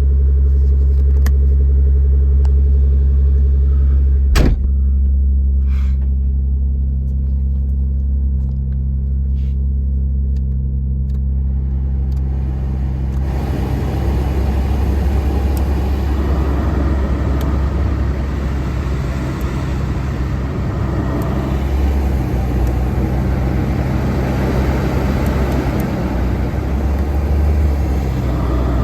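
1990 Nissan 300ZX's 3.0-litre V6 at high idle while warming up after a cold start: a steady low rumble. There is a single click about four seconds in, and a steady rushing noise joins about halfway through.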